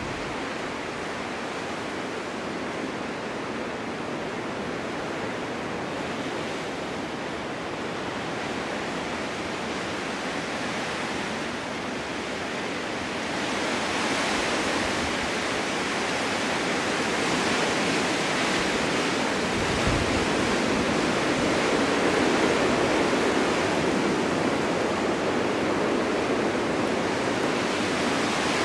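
Snowstorm wind blowing steadily, a dense rushing hiss that swells louder about halfway through and holds there.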